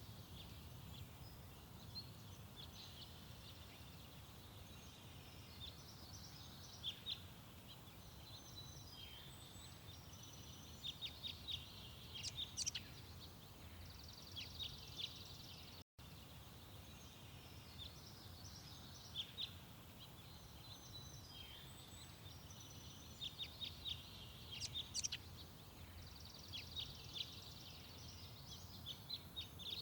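Several garden birds chirping and trilling in short, scattered bursts over a steady low background rumble, with a momentary gap in the sound about halfway through.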